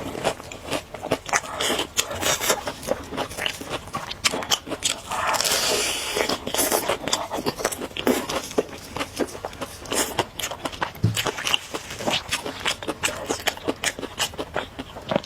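Close-miked eating of crunchy fried food: repeated crisp bites and crackling chews.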